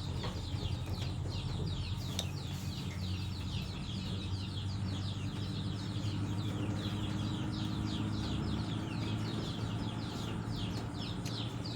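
Birds chirping, a steady stream of short, high, falling chirps, several each second, over a low steady hum.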